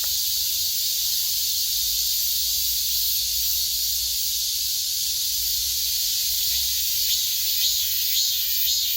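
Cicadas singing in a steady, high-pitched buzzing chorus, with a pulsing, rhythmic call joining in about seven seconds in.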